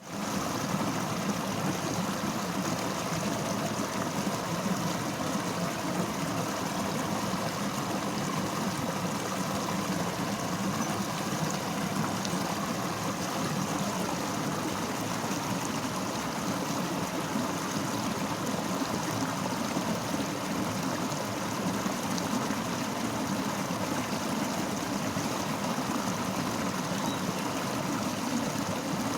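Fast-flowing river running steadily, an unbroken rush of water.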